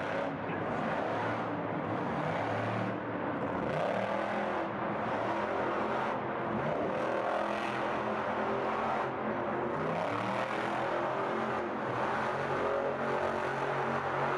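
Monster truck engine running hard and revving, its pitch rising and falling.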